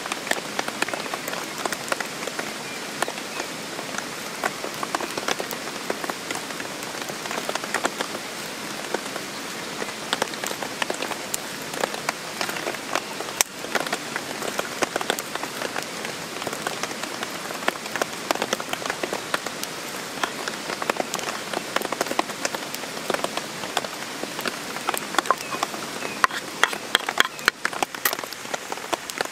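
Steady rain falling, with many short sharp clicks of individual drops through it.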